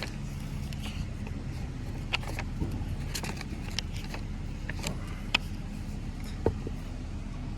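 A steady low mechanical hum of outside background noise, with a handful of short light clicks and taps scattered through it.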